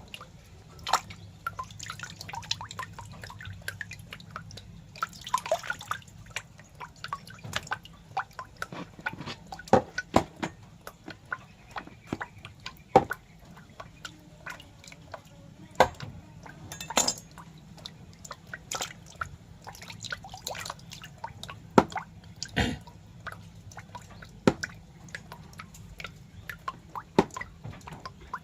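Irregular wet clicks and drip-like ticks, a few much sharper than the rest, over a low steady hum.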